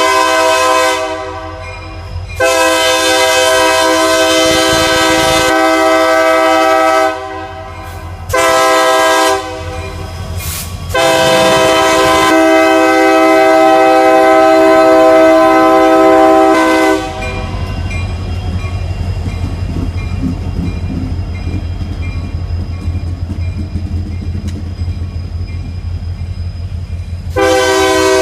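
Diesel freight locomotive sounding its multi-chime air horn in the grade-crossing pattern: a long blast ending about a second in, another long one, a short one, then a long one ending about halfway through. After that the train rumbles past with engine and rail noise, and the horn starts again near the end.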